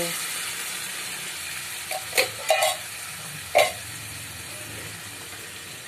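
Chicken and sliced mushrooms frying in oil in a pan, a steady sizzle, with three sharp knocks about two, two and a half and three and a half seconds in.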